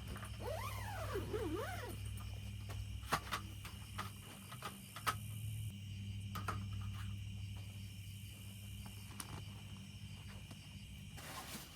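An animal's call, a wavering cry that swoops up and down in pitch several times within the first two seconds. Several sharp cracks follow later, over a steady low hum and a steady high insect drone.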